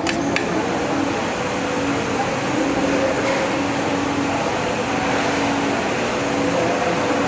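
Restaurant dining-room din: a steady hum of ventilation or air conditioning under indistinct background chatter, with a couple of sharp clicks right at the start.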